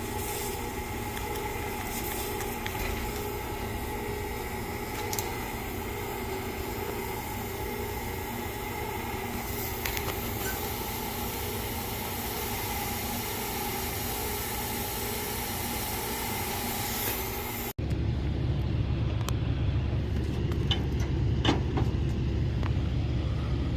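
A steady machine hum holding several constant tones. About eighteen seconds in, an abrupt cut switches to a louder low rumble with scattered clicks and knocks.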